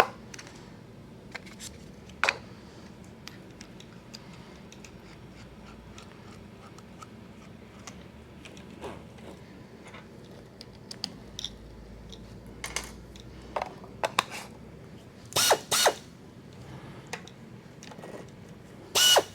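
Scattered metallic clicks and clinks of tooling and parts being handled while a pneumatic Flexarm tapping arm is set up, with two short, louder bursts about three-quarters of the way through.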